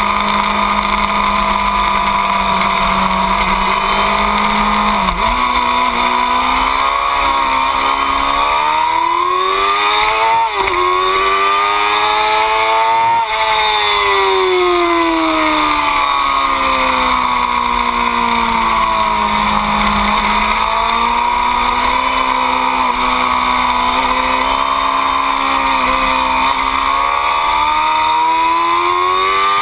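2008 Yamaha R6's inline-four engine running hard on track, with wind rush over the tail-mounted microphone. The revs climb for several seconds with a short dip about ten seconds in, fall away for several seconds as the bike slows, then climb again toward the end.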